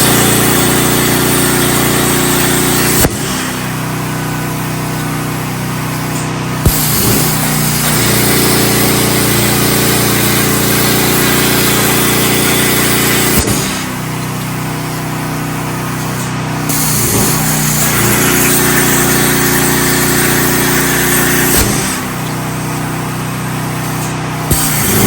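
CNC plasma cutter cutting thin steel plate: the arc's loud hiss, cut off three times for a few seconds, with a pop each time it stops and restarts. Under it a generator's engine runs steadily, its hum shifting as the arc stops and starts.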